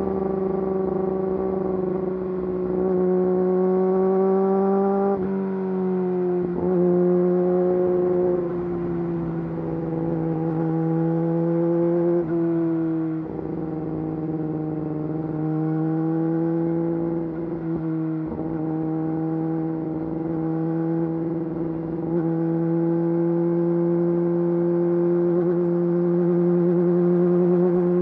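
Yamaha YZF-R6 inline-four engine through an Akrapovič full exhaust system, running under way at fairly steady revs, with brief dips in pitch several times.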